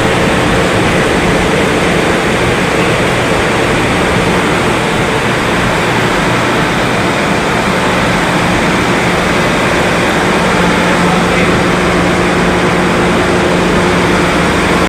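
Steady, loud running noise of a moving train, an even rushing rumble with a constant low hum under it.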